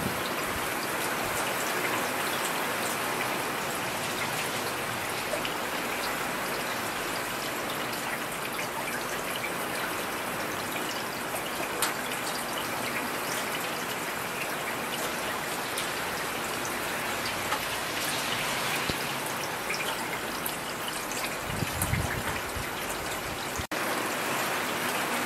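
Heavy rain falling steadily, a dense even hiss with scattered close drops ticking. A brief low rumble sounds near the end.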